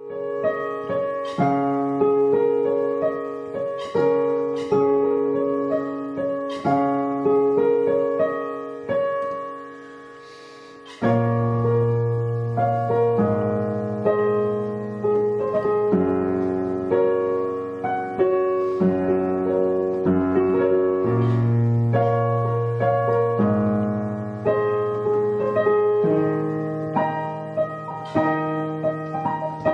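Digital piano played slowly in held chords. At first only the middle and upper notes sound; after a short fade about ten seconds in, fuller chords with deep bass notes come in from about eleven seconds on.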